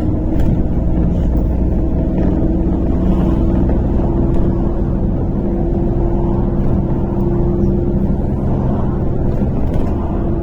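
Inside a MAZ-103.485 city bus under way: a steady drone of engine and road noise, with a faint whine that rises a little in pitch midway and then holds.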